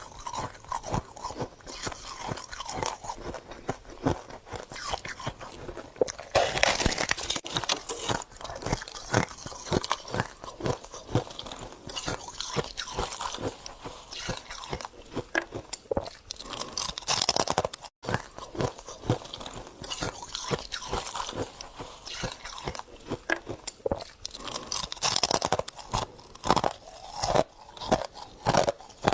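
Close-up crunching and chewing of freezer frost: a dense run of crackling bites, with louder crunching bursts every several seconds.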